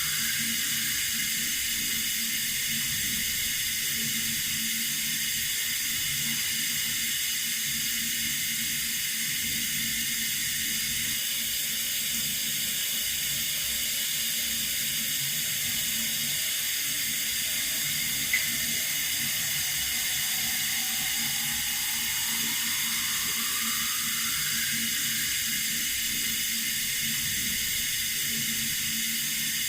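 Running water: a steady rushing hiss, with a single faint click about eighteen seconds in.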